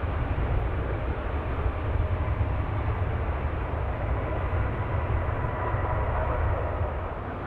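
Aircraft engines with a steady deep rumble and a faint whine, easing slightly near the end.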